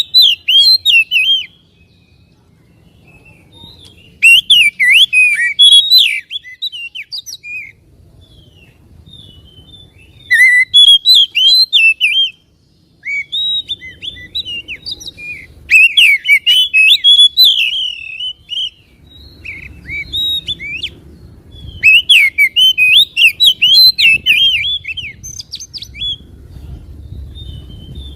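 Oriental magpie-robin (kacer) singing in loud bursts of rapid, varied whistled notes. Each phrase lasts one to a few seconds, with short pauses between phrases.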